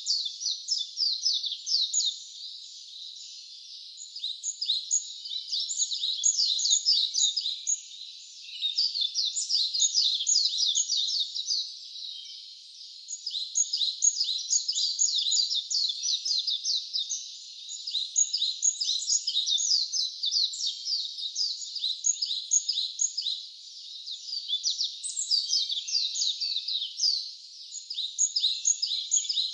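Wild songbirds chirping: a dense, unbroken run of rapid, high-pitched falling notes that eases briefly every few seconds.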